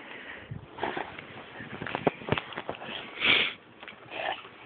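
A dog sniffing and snuffling close to the microphone in a series of short, irregular puffs of breath, the loudest about three seconds in.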